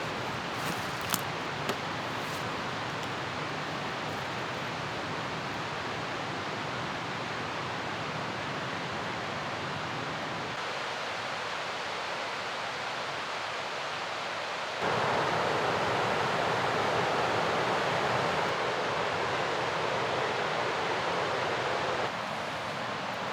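Mountain river rushing in a steady roar, abruptly louder and brighter from about 15 seconds in until about 22 seconds. A few faint clicks about a second in.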